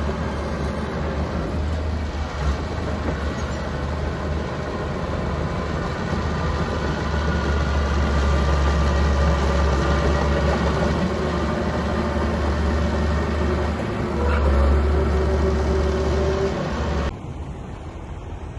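Mini bulldozer's diesel engine running steadily under load with a deep drone. Near the end it cuts off abruptly to quieter wind noise.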